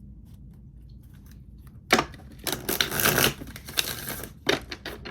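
Tarot cards being handled and shuffled: a sharp snap about two seconds in, then nearly a second of rustling, then a few short taps.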